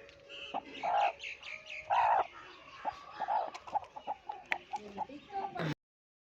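Aseel chickens clucking and calling, with two louder calls about one and two seconds in, then a quick run of short clucks; the sound cuts off abruptly near the end.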